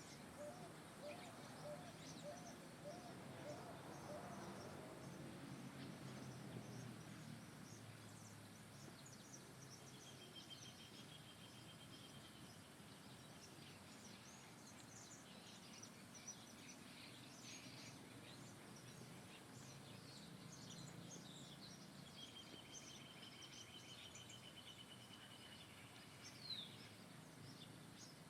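Faint songbird chirps over a low background rumble. Twice a bird gives a thin, even trill lasting a few seconds, and a quick falling note comes near the end.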